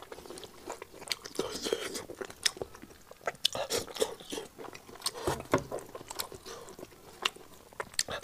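Close-miked chewing and biting of spicy braised sheep's head meat eaten by hand, with many short, irregular clicks of mouth and lips.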